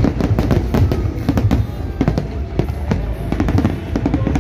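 Fireworks display finale: a dense, rapid run of firework bangs and crackles, several a second, over a continuous low rumble.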